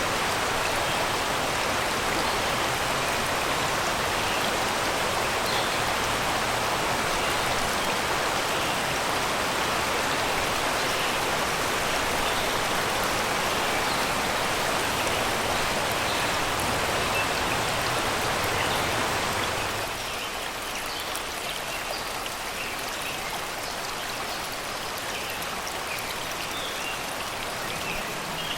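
Shallow river rushing and babbling over rocks and stones, a steady wash of water that turns quieter about two-thirds of the way through, with faint bird chirps.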